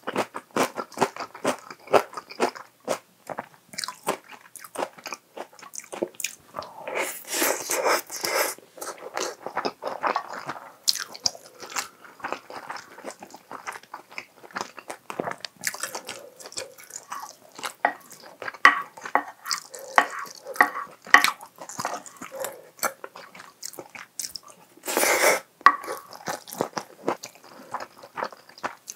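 Close-miked chewing of a mouthful of chicken-and-egg rice bowl: wet smacking and many small sharp mouth clicks at an uneven pace. A few longer, louder noisy stretches come about seven seconds in and again near the end, fitting the spoon scraping food together on the plate.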